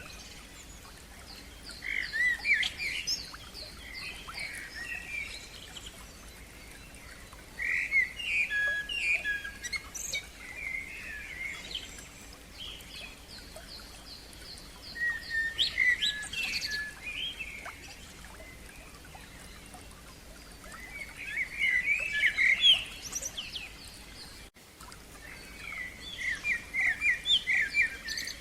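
A songbird singing in phrases of quick repeated notes, trills and short sweeping whistles. It sings about five phrases, each a couple of seconds long, with pauses of several seconds between them, over a faint steady background hiss.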